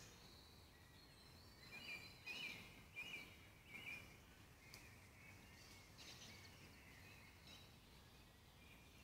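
Faint woodland birdsong: a few short chirping phrases come about two to four seconds in, with scattered fainter calls later, over a quiet steady hiss.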